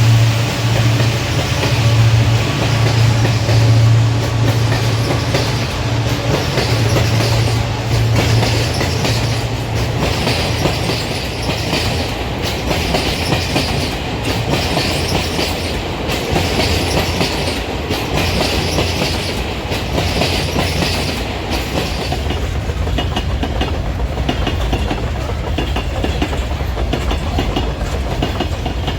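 A train passing: a steady low hum from the locomotive for about the first ten seconds, then the wagons' wheels clattering over the rail joints in repeating groups.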